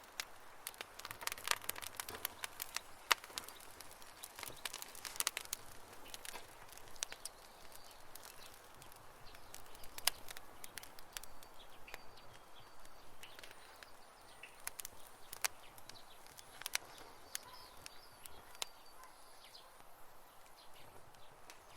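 Wood fire crackling, with irregular sharp pops and snaps over a soft hiss, busier in the first half. Faint high chirps sound in the background during the second half.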